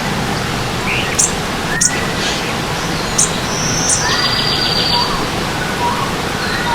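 Stream water running steadily under forest birdsong: a few sharp, high chirps, short whistled notes, and a rapid buzzy trill about four seconds in.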